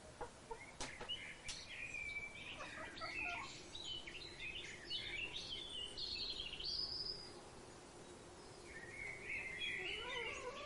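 Birds calling in a run of short chirping, warbling phrases, with two sharp clicks near the start and a faint steady hum under the later calls. The calls pause a little after the middle, then a new burst of calls comes near the end.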